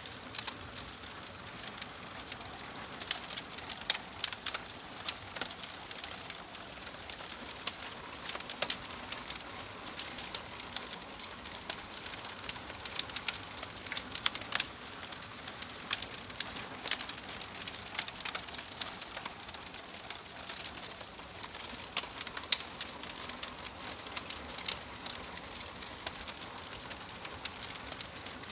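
Wood fire crackling in a fireplace: a steady hiss with many sharp, irregular pops and snaps.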